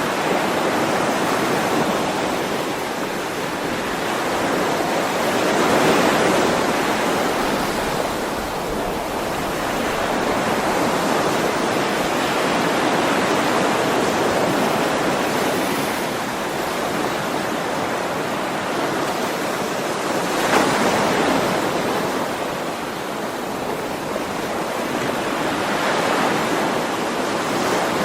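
Ocean waves washing ashore in a steady rush of surf, swelling and easing every several seconds as each wave breaks.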